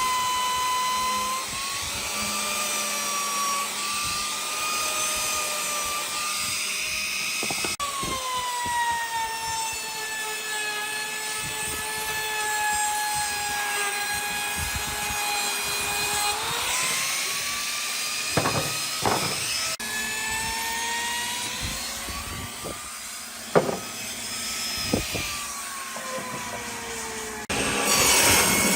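Electric power tool working wood: a motor whine that sags in pitch under load and recovers, with a few sharp knocks, and a louder, rougher cutting noise near the end.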